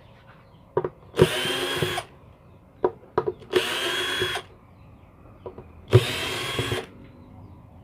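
Cordless electric screwdriver driving out the screws of a car power amplifier's casing: three short runs of under a second each, a steady whine, with small clicks of handling between them.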